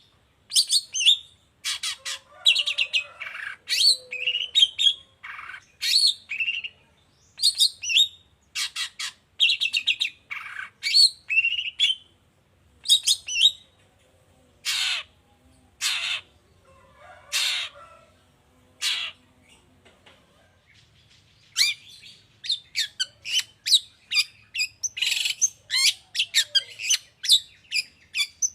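Long-tailed shrike (pentet) singing its varied mimicking song: quick runs of short chattering notes, with a handful of longer harsh calls in the middle before the fast chatter resumes.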